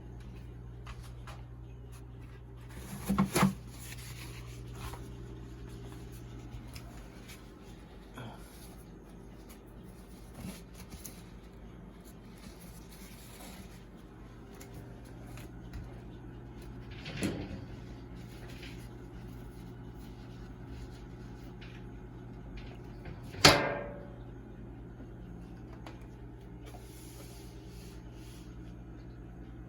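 Knocks and bumps on a refrigerator while its side is being scrubbed: a quick double knock, another knock later, and the loudest one about two-thirds through, over a steady low hum.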